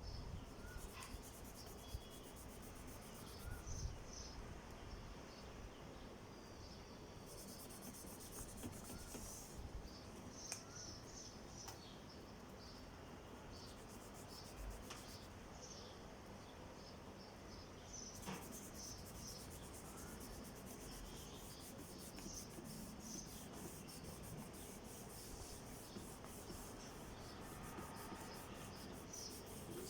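Oil pastel scratching and rubbing on drawing paper in quick, close strokes, coming in stretches and running on steadily through the last third.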